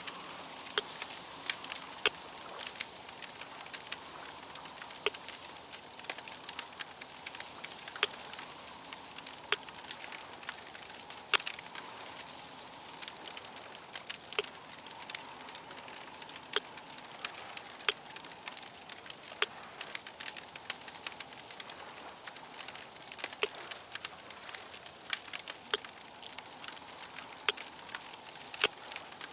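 Wood fire crackling: many sharp, irregular pops and snaps over a steady hiss.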